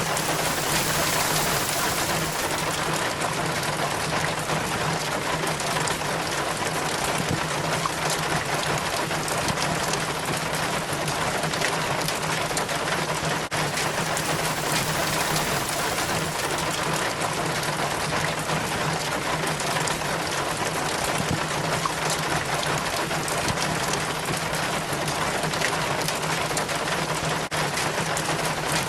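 Rainwater trickling and splattering down a rain chain from a roof gutter, amid steady falling rain. A steady low hum runs underneath.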